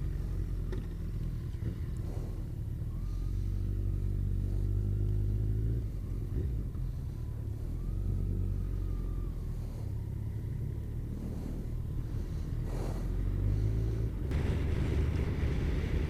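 Kawasaki ZZR1400's inline-four engine running steadily under way, with wind and road rumble; the engine note rises slightly a few seconds in, then settles.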